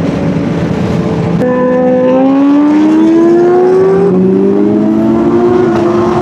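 Sport motorcycle engine accelerating hard. After a second and a half of wind rush, its pitch climbs steadily, then steps down briefly near the end as it shifts up.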